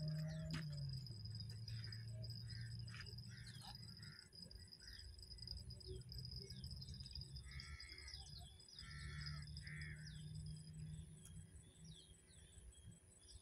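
Small birds chirping with scattered short calls, over a thin steady high-pitched whine that stops about eleven seconds in and a faint low hum.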